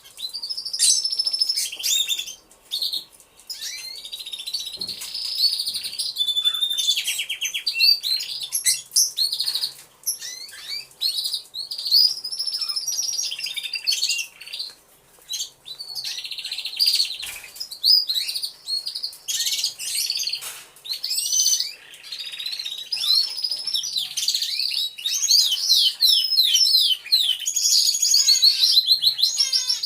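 Many domestic canaries singing at once in an aviary, their rapid trills, chirps and gliding whistles overlapping almost without pause.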